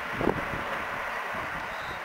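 Hankyu 9300 series eight-car electric train receding after passing through, its running noise slowly dying away. A couple of low wind thumps hit the microphone about a quarter of a second in.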